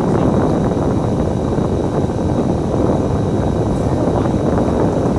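A Kowloon Motor Bus running on route, heard from inside: a steady, loud low rumble of engine and road noise with no breaks.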